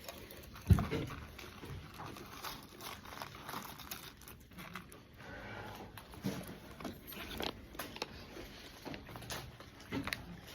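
Scattered rustling, crinkling and small knocks, with one sharp thump under a second in.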